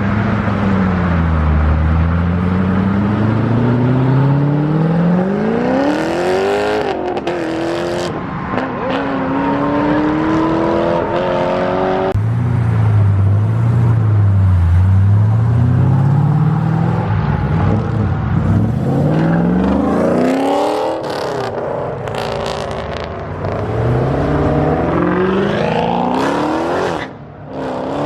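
Loud performance car engines revving and accelerating away, the pitch climbing in several hard pulls with gear changes between them.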